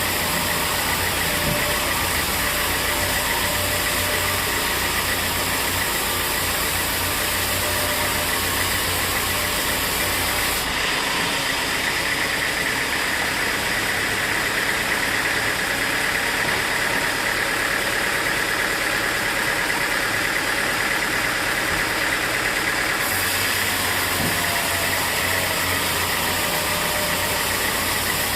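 Sawmill machinery running steadily: a constant engine-like drone with hiss. The sound changes abruptly about eleven seconds in and changes back about twenty-three seconds in.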